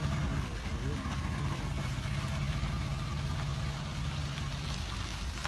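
A steady low engine-like hum with hiss over it; its strongest tone fades out about five seconds in.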